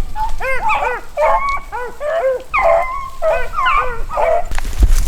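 A pack of beagles baying on a rabbit's trail: many short, arching cries from several dogs overlapping. A brief rush of noise comes near the end.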